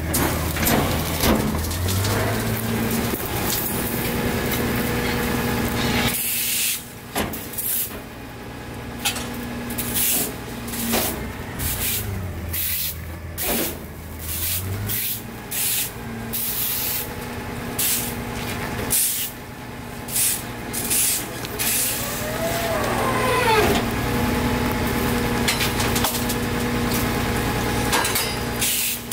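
Rear-loader garbage truck's CNG engine running, revving up briefly about a second and a half in, with repeated short bursts of air hiss and knocks. Near the end comes a brief squeal that slides in pitch.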